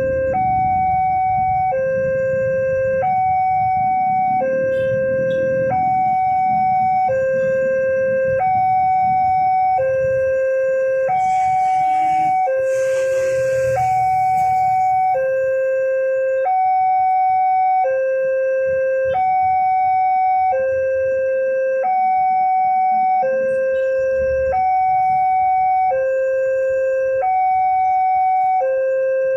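Railway level-crossing warning alarm sounding: an electronic two-tone signal that alternates between a low and a high note about every 1.3 seconds, warning that a train is coming or passing. A low rumble runs under the first half, and a brief hiss comes near the middle.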